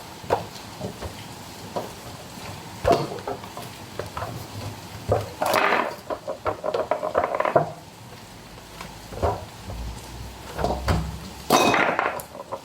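Kitchen clatter: bowls, pots and utensils knocking and clinking in scattered strokes, with busier stretches in the middle and near the end, as dough is handled.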